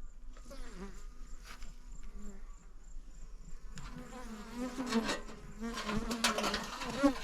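Bees buzzing as they fly close by in and out of their hive, several wavering buzzes overlapping. The buzzing grows louder past the middle and peaks near the end.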